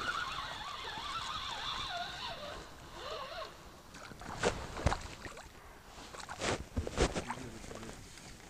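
A long wavering call that trails off and drops in pitch in its last second, then four sharp knocks in two close pairs.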